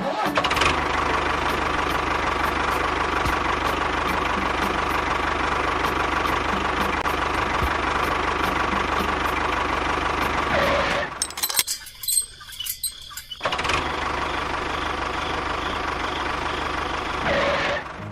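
Small motor of a DIY mini bulldozer running steadily. It cuts out about eleven seconds in, with a few clicks, and runs again for a few seconds more.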